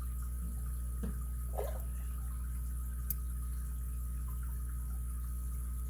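Steady low hum with a faint high whine, and over it a few faint small clicks of a pick and tension wrench working the pins of an ABUS 83CS/55 padlock, the sharpest about three seconds in.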